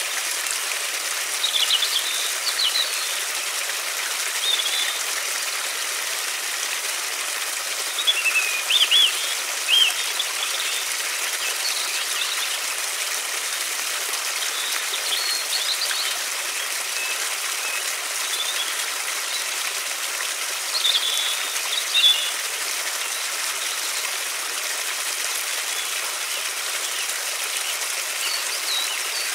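A river or stream of water rushing steadily, with small songbirds giving short chirps and twitters every few seconds above it.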